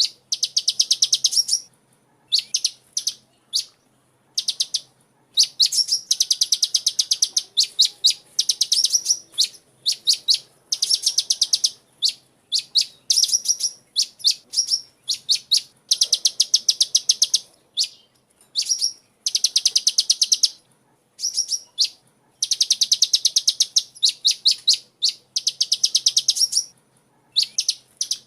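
Small songbird, a sunbird (Indonesian "kolibri"), calling in rapid runs of high, sharp chirps. The runs come in bursts of one to two seconds with short pauses between them.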